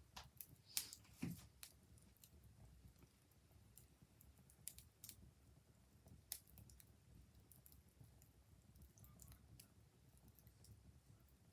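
Wood fire crackling faintly: irregular snaps and pops, a cluster of them in the first two seconds and scattered ones after, over a low rumble.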